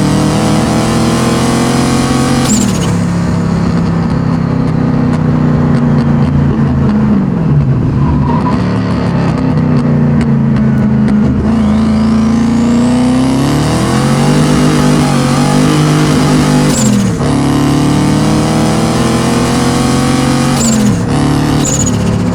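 Turbocharged M62 V8 in a BMW E30 under hard throttle. The revs climb and then drop sharply several times, and a faint rising whistle is heard about halfway through.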